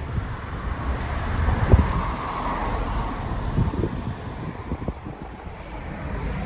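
Car on the move: a steady low rumble of road and engine noise with a hiss of tyres, and a few short knocks through the middle.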